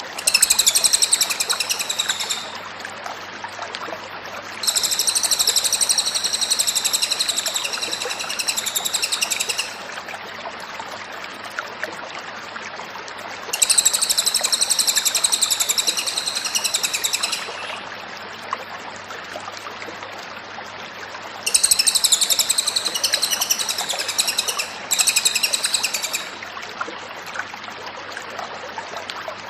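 A cililin songbird singing in repeated bouts of fast, high chirping trills, each lasting a few seconds with short pauses between, over a steady rushing background noise.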